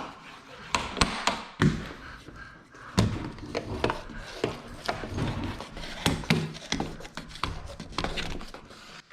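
Irregular knocks and taps, with some rubbing, from hard objects being handled and set down, several of them sharp.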